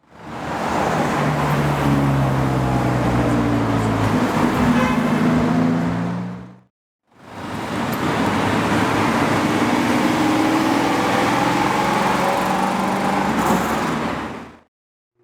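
Lamborghini supercar engine running at a fairly steady speed, with the pitch shifting slightly, heard in two separate stretches each faded in and out.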